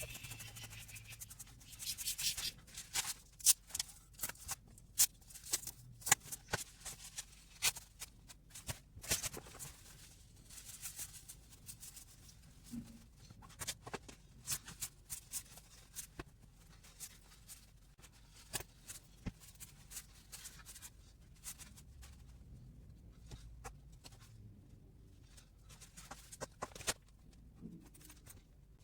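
Rustling and rubbing as gear is handled and moved around, with many short sharp clicks and knocks. The noise is busiest in roughly the first ten seconds.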